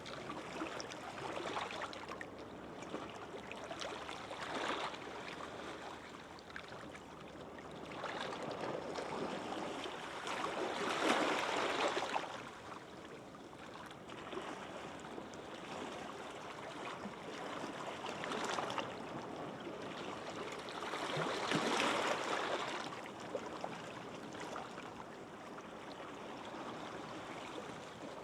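Gentle sea waves washing onto a sandy beach, the rushing noise swelling and fading, with two larger waves breaking about eleven seconds apart near the middle.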